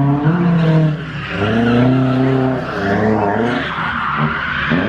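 Drift cars' engines revving up and down, held high for a moment in the middle, with tires squealing as a car slides in the second half.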